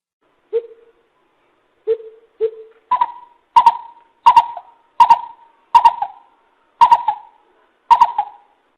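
Coucal calling: three low hoots, then a series of about seven higher, trailing hoots a little under a second apart.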